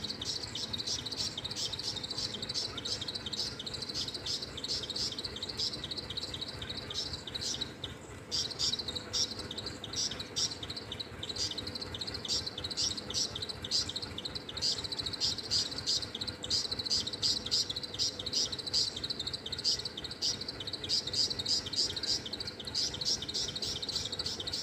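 Small parrots chirping rapidly and continuously in high-pitched calls, with a brief lull about eight seconds in.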